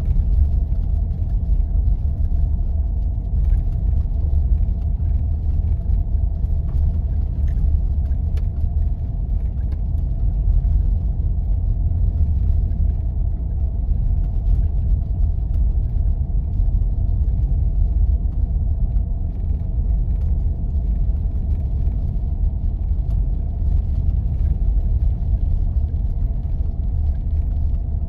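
Jeep driving on snowy roads: a steady low rumble of engine and tyres that holds even throughout, with a faint steady tone above it.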